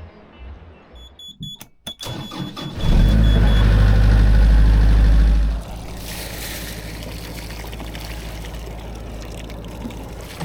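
A boat's inboard engine starting: a few clicks, then a loud low run for about three seconds that drops back to a steady idle.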